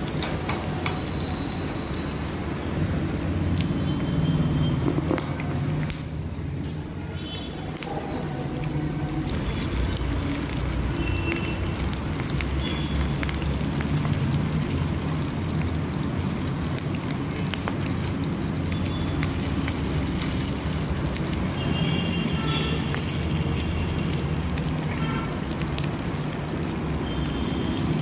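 Millet-crusted tikkis shallow-frying in mustard oil in a nonstick pan: a steady sizzle with fine crackling spits of oil over a low hum. A metal slotted spatula turns the tikkis in the pan.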